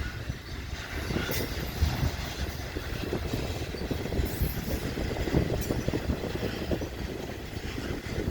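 Freight train rolling on the rails, a steady low rumble with frequent small clicks and knocks of wheel clatter.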